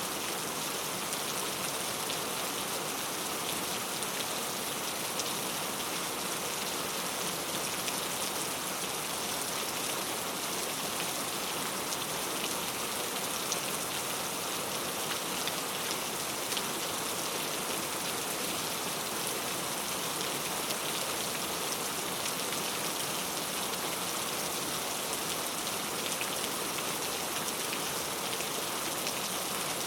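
Heavy rain pattering steadily on mango tree leaves, a dense, even patter of countless drops.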